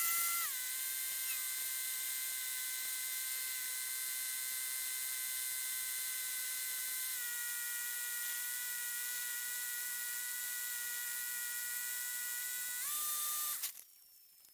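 Steady electrical whine of several high tones in a Cessna 152's intercom audio feed. The pitch steps down slightly about seven seconds in, rises briefly near the end, then cuts off suddenly.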